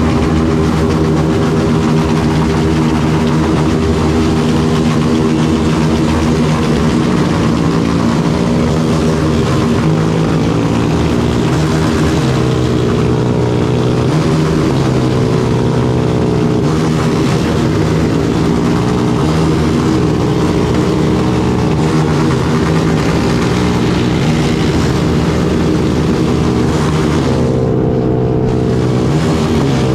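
Yamaha Lander 250 single-cylinder motorcycle engine running under way. Its pitch rises and falls several times with throttle and gear changes, over a steady rush of riding noise.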